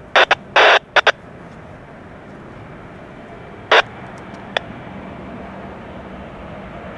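Faint, steady rumble of an approaching freight train's diesel locomotives, still distant. Cutting through it are several short, loud bursts of hiss: four in quick succession in the first second and one near four seconds in.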